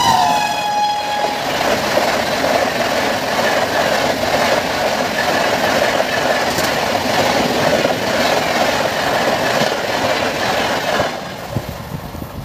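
Express train passing at speed: the end of its horn drops in pitch in the first second or so as the locomotive goes by. The steady noise of the coaches running over the rails follows and falls away about 11 seconds in as the last coach clears.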